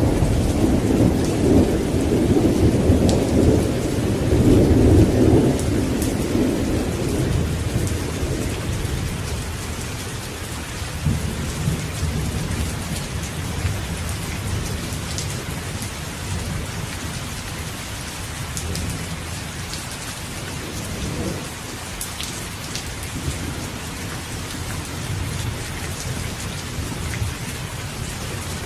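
Steady rain falling, with a long low roll of thunder that fades out over the first several seconds. Sharp drips tick now and then over the rain.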